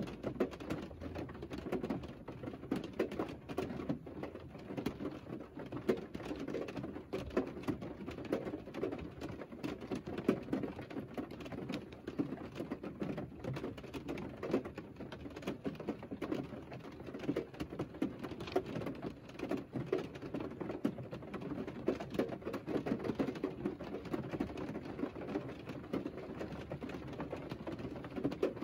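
Rain pattering on the roof of a parked Mercedes car, heard from inside the cabin: a dense, irregular patter of drops with no let-up.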